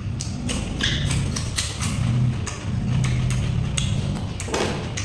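Close-miked chewing and eating sounds: wet smacks and clicks from the mouth several times a second over a low rumble, with one longer, louder mouth noise near the end.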